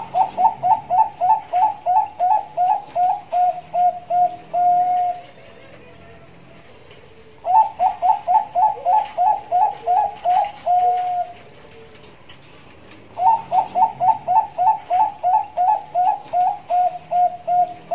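Zebra dove (Bangkok perkutut) cooing: three song phrases, each a rapid string of short coos ending in a longer held note.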